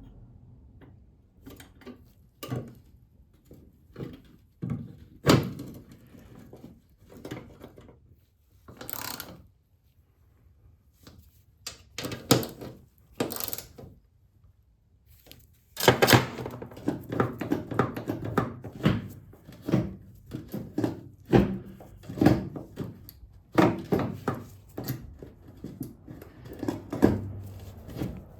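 Irregular knocks, clunks and handling noises of parts being fitted and worked on by hand during car repair. They are scattered at first and come thick and fast from about halfway through.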